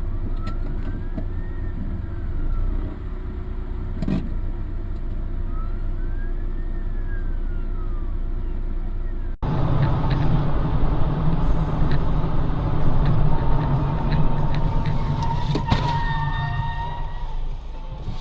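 Car driving noise, engine and road rumble as heard by a dashboard camera, with a faint whine that rises and falls twice. About halfway through it cuts to a louder stretch of road noise with a few knocks and a short steady tone near the end.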